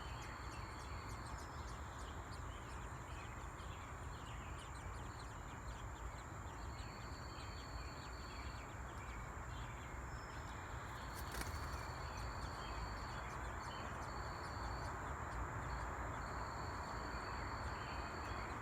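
Outdoor ambience: a steady background hiss with insects trilling, a constant high thin buzz, and level trills that start and stop every one to two seconds.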